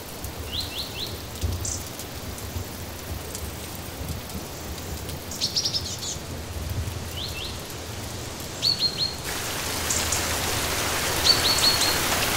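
Steady rain hiss with a small songbird calling over it: short groups of three or four quick, high, rising chirps every second or two. The rain grows louder about nine seconds in.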